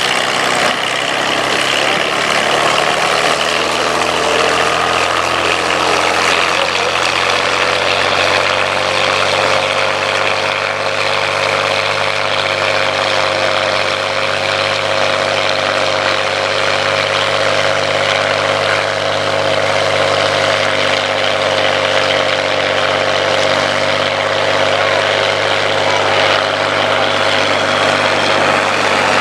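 Piston aero engines of a Bristol Blenheim and two Supermarine Spitfire Mk Is flying in formation, droning steadily: the Blenheim's Bristol Mercury radials and the Spitfires' Rolls-Royce Merlin V12s. The pitch rises a little over the first several seconds, then holds steady.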